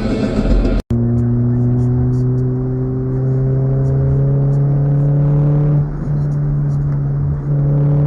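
A vehicle engine pulling under steady acceleration, its pitch climbing slowly. The sound dips briefly about six seconds in, then the engine climbs again. A clip starts abruptly about a second in, after a moment of silence.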